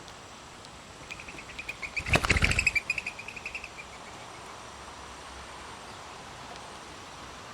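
Mourning dove taking off: a quick run of whistling wing notes, with a burst of loud wing flaps about two seconds in, fading out by about four seconds.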